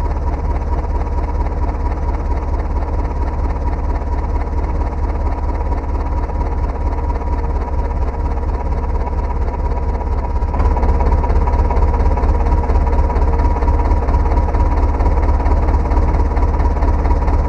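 Tractor engine running steadily with a deep, fast pulsing, getting louder about ten seconds in.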